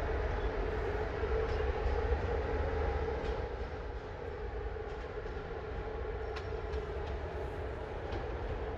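Romanian EA class (Electroputere) electric locomotive standing or creeping while being coupled to a passenger train: a steady hum over a low rumble from its transformer and cooling blowers, with a few faint clicks.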